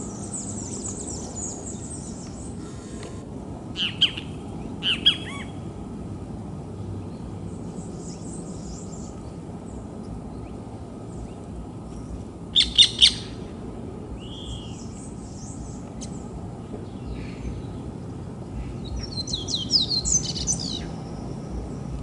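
Songbirds giving short, scattered calls over a steady low background noise. The loudest are a quick triple burst a little past halfway and a run of rapid chirps near the end. These are the calls of birds mobbing what they take for a predator on the ground.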